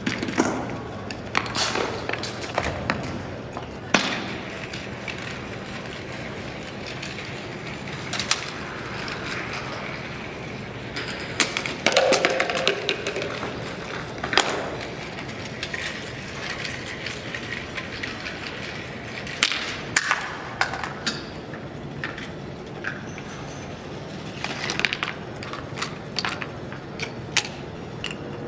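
A domino chain-reaction machine running: irregular clacks, knocks and thuds of dominoes and small parts toppling and striking one another, with a dense clatter about halfway through, over a steady low background hum.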